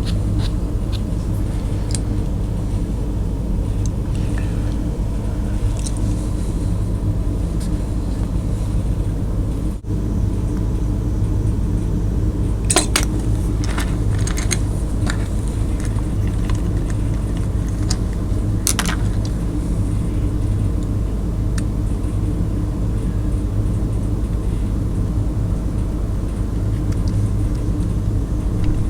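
A steady low mechanical hum, like a motor or fan running, with a few sharp light clicks about halfway through and again later.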